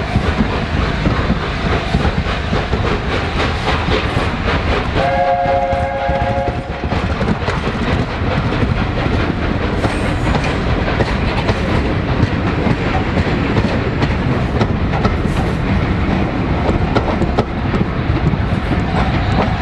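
Steam train running past on the line, its wheels clattering over the rail joints. About five seconds in, the locomotive's chime whistle sounds a multi-note chord for under two seconds.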